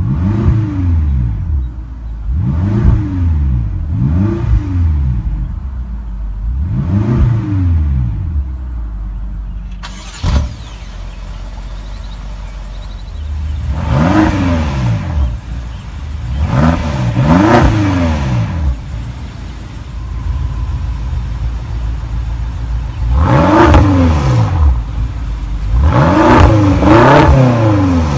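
BMW X5M's 4.4-litre twin-turbo V8 idling and being revved in short blips, each rising and falling back to idle within about a second. There are about a dozen blips, some spaced a few seconds apart and a quick cluster near the end.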